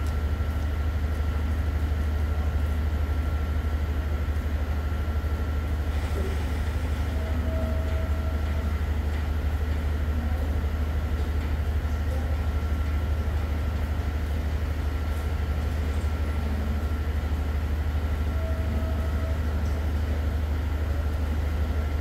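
Stationary diesel passenger train idling at the platform: a steady low drone with a faint, constant high whine over it.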